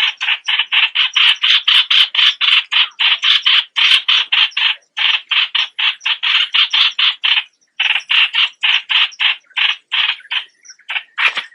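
Streak-eared bulbul calling: a fast, harsh run of short notes, about five a second, with a brief pause about two thirds of the way through and more spaced notes near the end.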